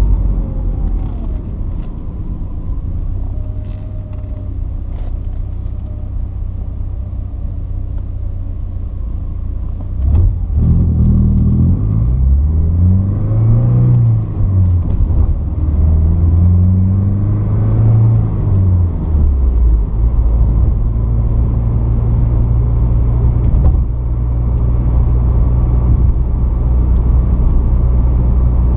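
Porsche 944's 2.5-litre four-cylinder engine running under way with a steady low rumble. About a third of the way in there is a sharp click, then the engine note rises and falls twice before settling back to a steady drone.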